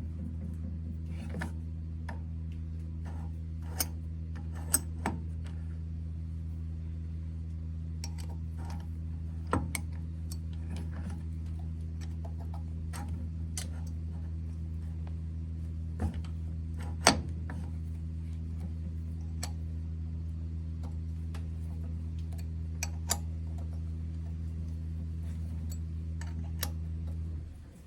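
Smithy CB-1220XL 3-in-1 lathe running with a steady hum while facing a steel transmission nut, with scattered sharp ticks and clicks from the cut. The motor shuts off just before the end.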